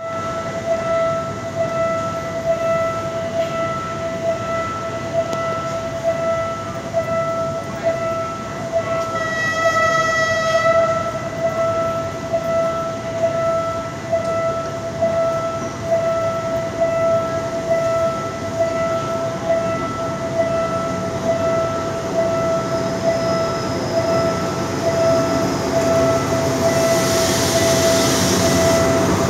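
A railway warning bell rings steadily, about once a second, as a diesel passenger train approaches. Near the end the locomotive's engine rumble grows and a high hiss rises as the train draws close and passes below.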